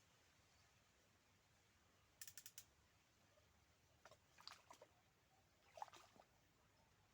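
Faint clicking in three short clusters over near silence: a quick run of about five clicks, then two looser groups of clicks a couple of seconds and about three and a half seconds later.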